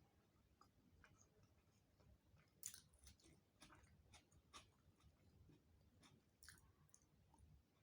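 Faint, close-miked chewing of a rice-and-curry meal: wet mouth clicks and small crackles every half second or so, a little louder three times.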